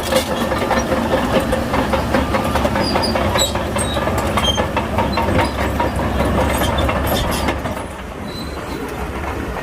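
Bulldozer working: its diesel engine runs steadily under a constant clanking and rattling of the steel tracks, easing off a little about eight seconds in.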